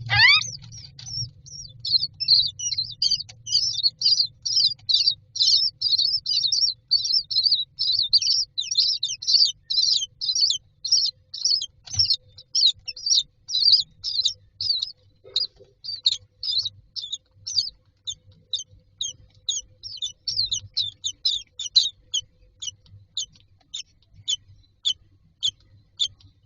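Common myna chicks in the nest box calling for food: a rapid run of short, high begging calls, packed closely at first and thinning to about two calls a second near the end.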